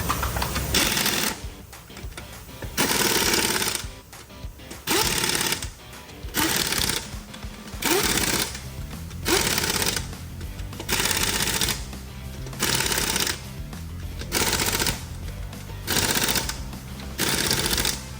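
Background music with a rattling machine in short bursts, about eleven of them, each under a second and spaced about one and a half seconds apart.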